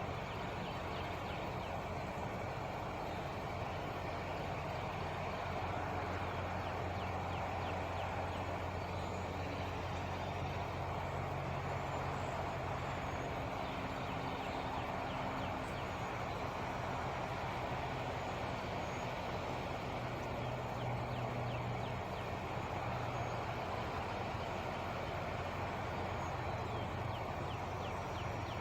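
Truck engine idling: a steady low hum that holds an even level throughout.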